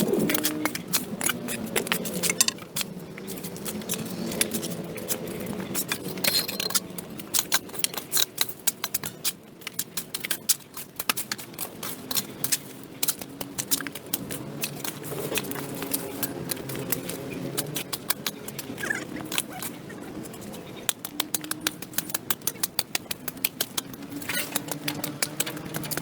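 A hand tool scraping and clearing dirt and debris on a concrete sidewalk: dense, irregular scraping and clicking that runs on with small pauses.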